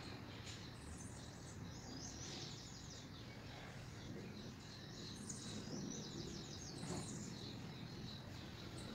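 A bird chirping in the background: a quick trill of high chirps about two seconds in and another about five seconds in, with a few single chirps between, over a low steady room noise.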